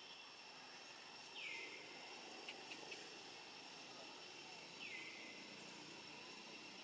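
Faint outdoor ambience with a steady high insect drone. Over it come two short, high calls that fall in pitch, about three and a half seconds apart, with a few light clicks between them.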